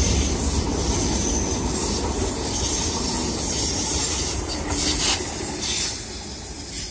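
Tangara electric suburban train passing close along the platform without stopping: a steady rumble and rush of wheels on rail. The sound fades near the end as the train moves away.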